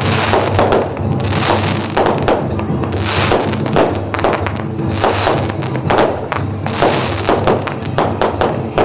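Strings of firecrackers popping in dense, irregular cracks, with a few short falling whistles from about three seconds in. Music plays underneath.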